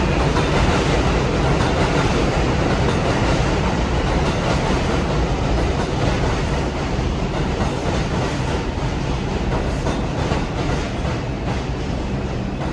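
New York City Subway R142/R142A train running on the rails, a steady, loud rumble that eases slightly toward the end.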